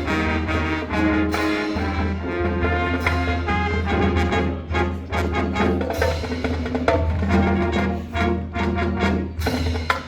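High school marching band playing its field show: full brass chords with a heavy low bass line and drum hits.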